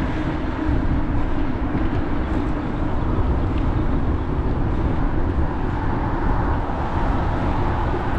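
Steady wind rumble on the microphone with road and tyre noise from riding a bicycle.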